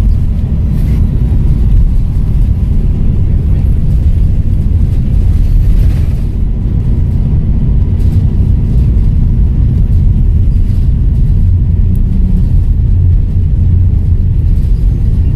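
Volvo B7RLE single-deck bus with a seven-litre straight-six diesel running under way, a loud, steady low rumble with a slight dip about six seconds in.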